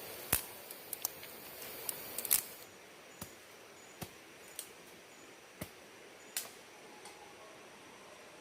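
A series of about a dozen sharp, irregular clicks and taps, closest together in the first two and a half seconds, over a soft hiss.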